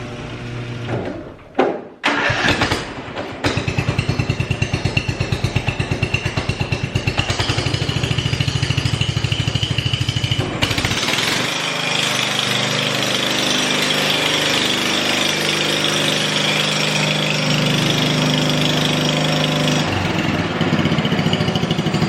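Riding lawnmower engine cranking and catching about three seconds in, then running with an even putter. Its speed goes up around ten seconds in and shifts again near the end.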